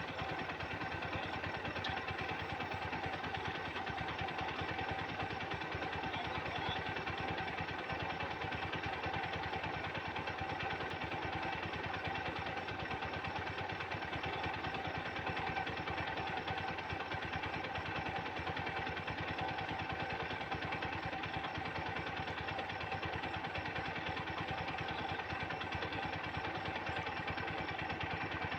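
Swaraj tractor's diesel engine idling steadily, with an even, rapid firing rhythm that does not change.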